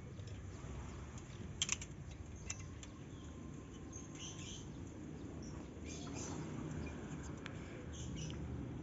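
Faint, scattered short chirps of small birds over a low steady outdoor rumble, with a sharp double click about a second and a half in.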